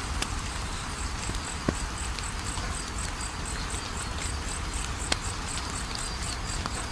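Wood fire crackling steadily, with a few sharp pops, the loudest about a second and a half in and again about five seconds in. Under it, a steady high chirping repeats about three times a second.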